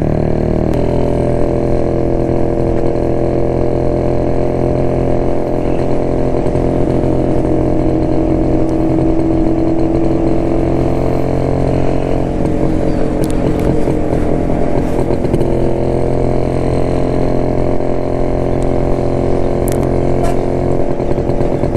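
Two-stroke single-cylinder engine of a 1972 Jawa motorcycle running under way at a steady note. The note wavers and shifts briefly about twelve seconds in, then steadies again.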